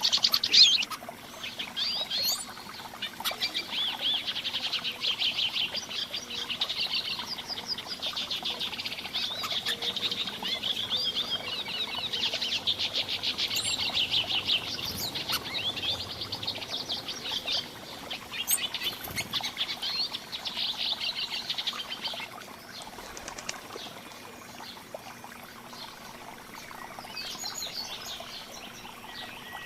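Small songbirds chirping and twittering in a dense, rapid chatter, which thins to fainter, scattered calls after about 22 seconds.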